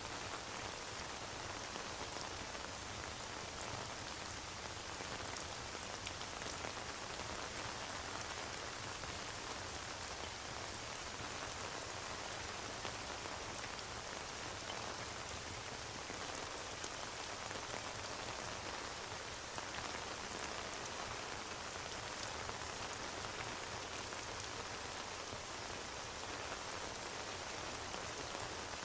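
Steady rain ambience: an even hiss of falling rain with faint scattered ticks of drops.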